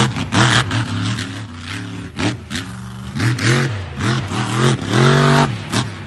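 Big truck engine revving up and down in repeated quick bursts, with one longer, higher rev near the end, over rough clattering noise.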